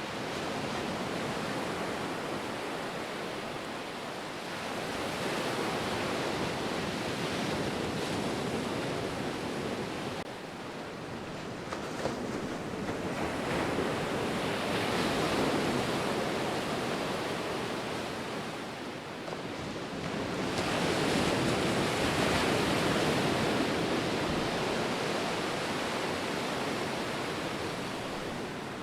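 Ocean surf washing onto a shore, a steady hiss of breaking water that swells and fades in slow surges about every seven or eight seconds.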